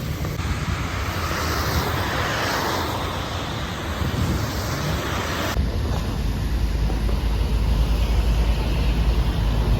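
Steady rush of heavy rain. About halfway through, the sound changes abruptly and a heavy low rumble of wind on the microphone takes over.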